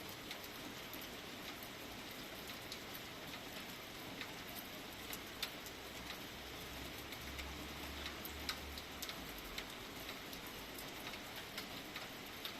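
Light rain falling: a steady hiss with irregular drops ticking and dripping onto a surface. A faint low rumble comes and goes about halfway through.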